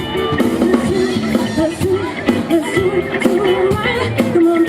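Live rock band playing: a drum kit keeping a steady beat under guitar and a singing voice.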